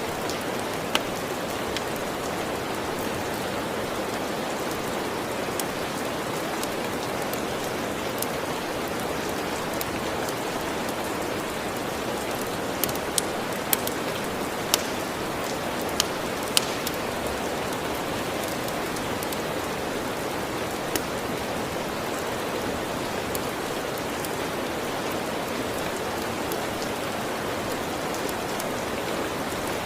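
Steady rain falling, with sharp pops from a crackling wood fire scattered through it, several in quick succession a little past the middle.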